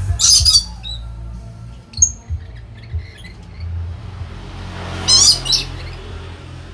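Lory (nuri parrot) squawking: a burst of harsh, high calls at the start and another about five seconds in, with a few short chirps between. A steady low hum runs underneath.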